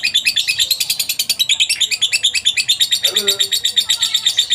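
Lovebird's long 'ngekek' trill: an unbroken rapid run of high, evenly spaced chirps, about ten a second. A brief lower call cuts in about three seconds in.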